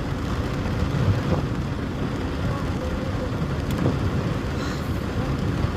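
Steady low rumble with a fainter hiss above it, with no single event standing out: outdoor noise of wind and traffic on a rainy street.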